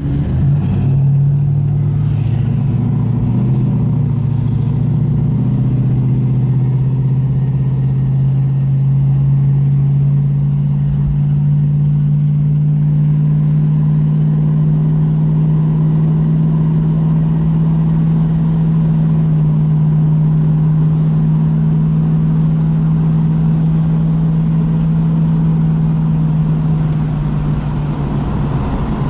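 Plymouth Duster's 340 cubic-inch V8 with dual exhaust, heard from inside the cabin while driving: the engine note shifts during the first few seconds, then settles into a low, steady drone at cruising speed.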